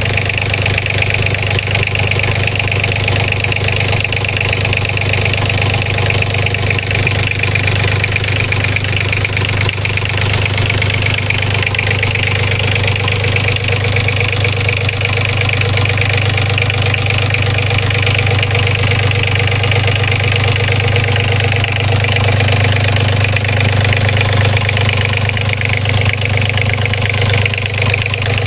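A Killy FEELING 850 Special boat's engine running steadily at idle.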